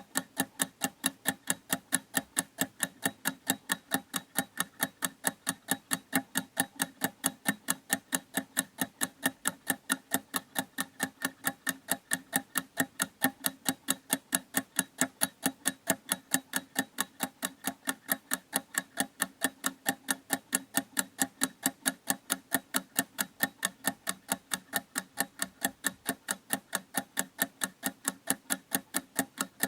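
Clock ticking in a fast, even rhythm of sharp ticks that never changes.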